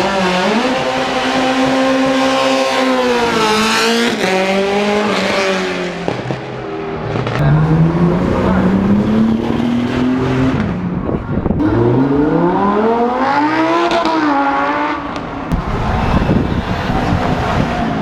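Sports car engines revving and accelerating, their pitch holding, then climbing and falling several times, loudest around the middle and again near the end.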